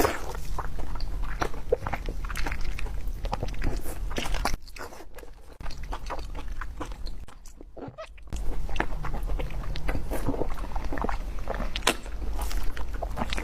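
Eating sounds: food being bitten and chewed, a dense run of small crunches and clicks that turns quieter for a few seconds in the middle.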